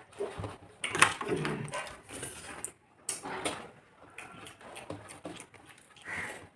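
Eating sounds: chewing and mouth noises of someone eating a rice meal by hand, with irregular clicks and taps and a sharp click about a second in.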